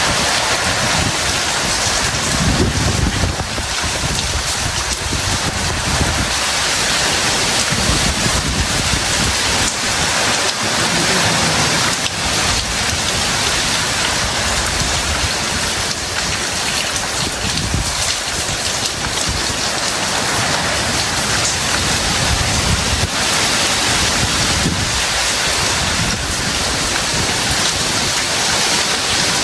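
Heavy tropical rain pouring down steadily, with a low rumble that swells and fades a few times, about three seconds in, around ten seconds and again near the end.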